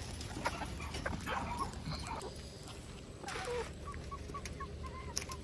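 Chickens making a run of soft, short calls in the last second or so, with a brief rustle a little past the middle.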